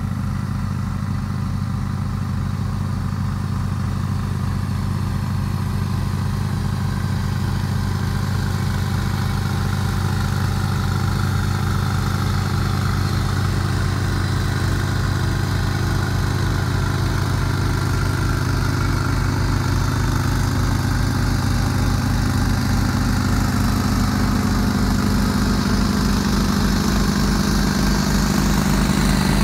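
John Deere X324 lawn tractor engine running steadily with its 44-inch snowblower attached, an even pulsing drone that grows slightly louder near the end.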